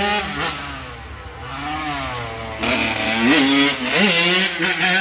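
Dirt bike engines revving up and down, the pitch rising and falling repeatedly, louder and harsher from a little past halfway.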